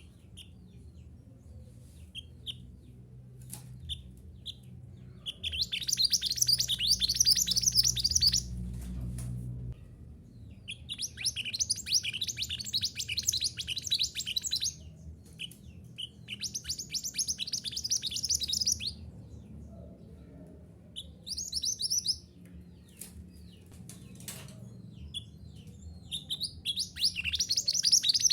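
Mantenan gunung songbird singing in long, rapid twittering phrases, each lasting a few seconds, with short pauses between, over a faint low hum.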